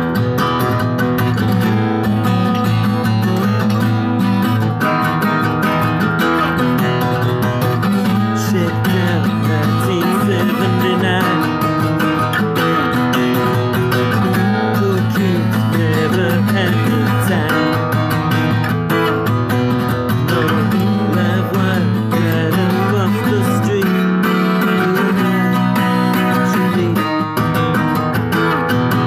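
Seagull S6 acoustic guitar played in a folk style, a steady, continuous run of chords and notes.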